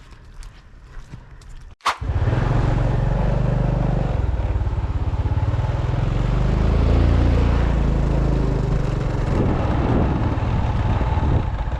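A few faint clicks, then about two seconds in a sudden cut to a motorbike engine running steadily while being ridden.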